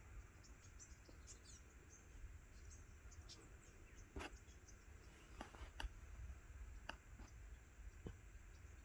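Near silence with a low rumble and a handful of faint, sharp clicks, most of them in the second half, plus a few faint high chirps.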